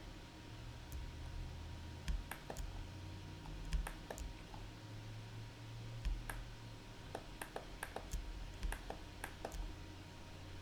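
Irregular, scattered clicks of a computer mouse and keyboard, over a faint low hum.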